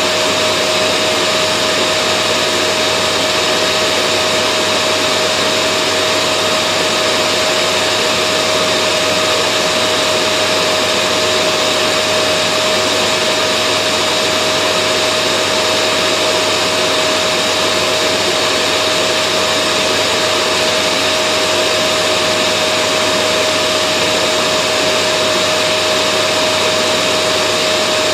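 Vacuum cleaner running steadily: an unchanging motor whoosh with a steady whine in it.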